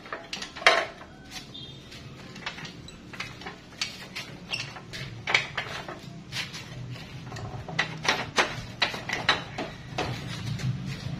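Irregular metallic clinks and knocks of hand tools and metal parts being handled.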